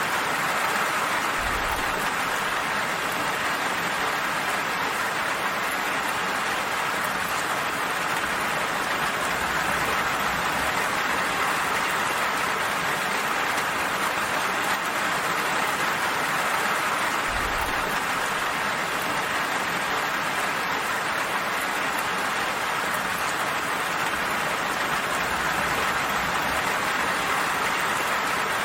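Steady rain falling, an even, unbroken hiss of drops with no lulls.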